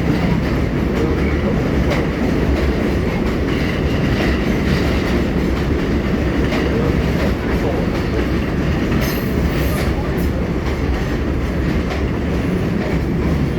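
R188 subway train running between stations, heard from inside the car: a steady rumble of wheels on rail with some clacking, and a brief high-pitched screech about nine seconds in.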